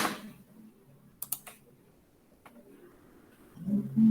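A few scattered clicks of a computer keyboard being typed on, followed near the end by a short, low voice-like sound.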